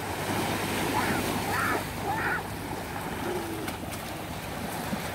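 Surf washing on the beach, with wind on the microphone and faint voices in the background.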